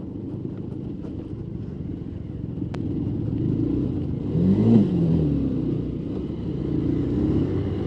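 Motorcycle engine running as the bike is ridden over a rough dirt trail. It gets louder about three seconds in, and the revs rise and fall briefly about four and a half seconds in.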